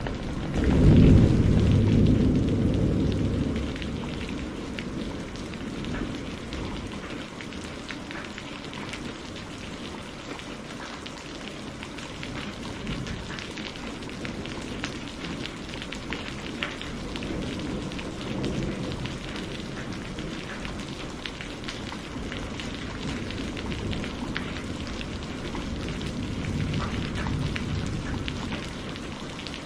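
Steady rain falling with scattered drop ticks, broken by a loud clap of thunder about a second in that rumbles down over a few seconds, then fainter distant thunder rolling twice later on.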